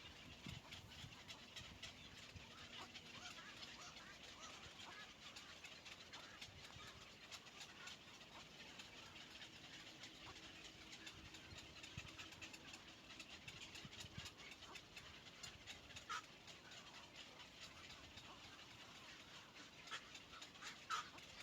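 Faint outdoor ambience with a steady hiss and scattered small ticks, and two short high chirps from a bird, one about three-quarters of the way through and one near the end.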